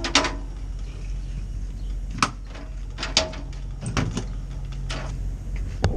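Semi truck idling with a steady low hum, under a series of sharp metallic clicks and clanks, about one a second, from the trailer's couplings being worked while the truck is unhooked.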